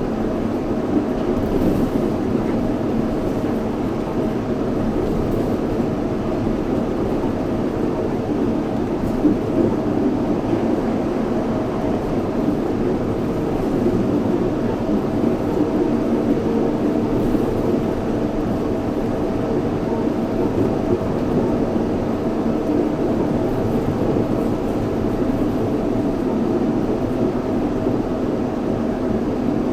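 Yurikamome 7300-series rubber-tyred automated guideway train running at steady speed, heard from inside the car: an even rumble of tyres on the concrete guideway with a steady low hum over it.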